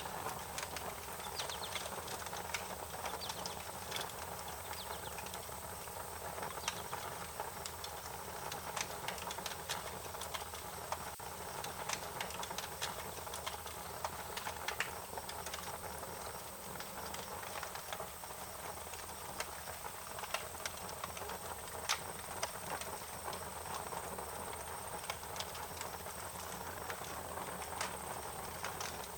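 Wood fire crackling, with irregular snaps and pops over a steady hiss.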